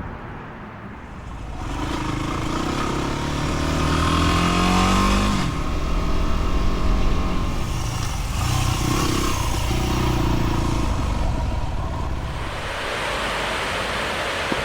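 Dual-sport motorcycle engine accelerating, its pitch rising for a few seconds, then dropping off sharply about five seconds in. It pulls again from about eight to eleven seconds, then runs lower and steadier.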